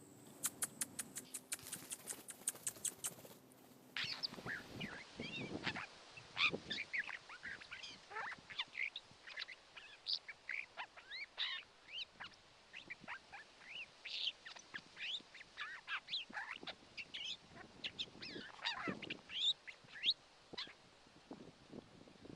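A rapid run of sharp clicks, about four or five a second, lasting about three seconds. Then many birds call densely for the rest of the time, in short, harsh, sweeping calls that overlap.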